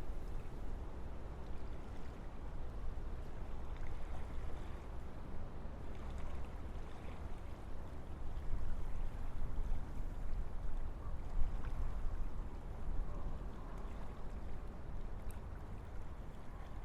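Wind blowing through a forest: a steady low rushing that swells and eases a little from moment to moment.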